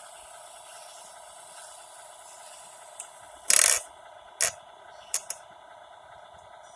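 Radio-controlled 6x6 dump truck, with a steady whine behind. A sharp, loud clatter comes about three and a half seconds in, followed by a lighter knock and two quick clicks.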